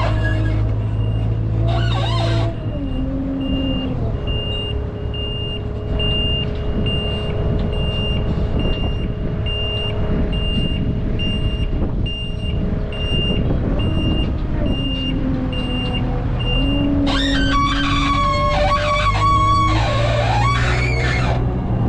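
Wheel loader's diesel engine running with its pitch shifting as it works, while a reverse alarm beeps steadily, about one and a half beeps a second, through the middle of the stretch, the sign of a machine backing up. Guitar music comes in near the end.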